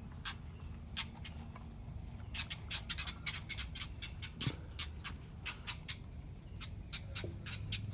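Small birds giving short, sharp alarm calls over and over, several a second at their busiest in the middle: the parents scolding an intruder at their nest of nestlings.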